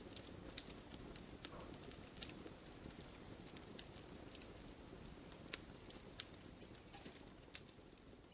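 Campfire crackling: irregular sharp pops and snaps of burning wood over a low, steady hiss of the flames, with one louder pop about two seconds in.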